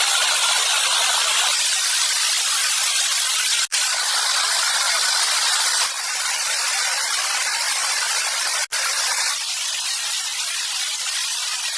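Steady rushing water, a loud even hiss, broken by two brief silent gaps about four and nine seconds in.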